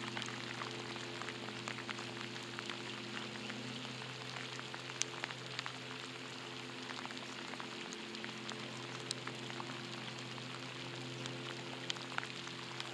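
Rain falling on a lake and the shore around it: an even hiss with scattered sharp ticks of drops striking close by.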